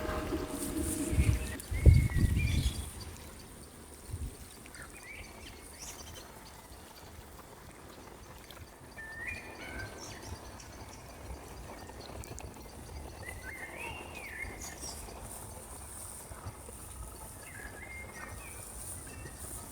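Outdoor natural ambience with short, scattered bird chirps and a faint steady high hiss. In the first couple of seconds a few loud, low thumps stand out, the loudest sound in this stretch.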